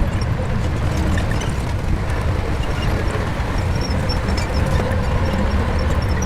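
Shantui bulldozer's diesel engine running steadily, a deep, even rumble with no break.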